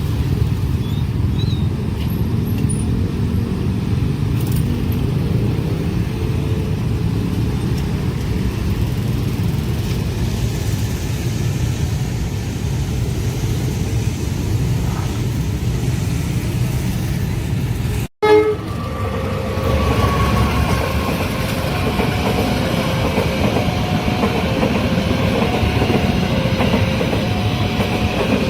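Trains passing a railway level crossing: a steady low rumble of a train running by. After a sudden cut near two-thirds of the way through, another train runs past with a horn sounding and a repeating two-note signal.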